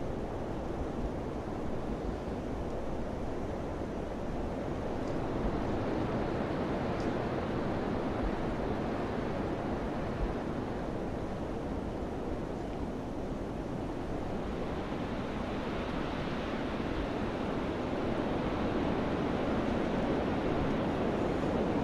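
Wind blowing as a steady rushing noise, with a gust that swells and grows brighter about two-thirds of the way through.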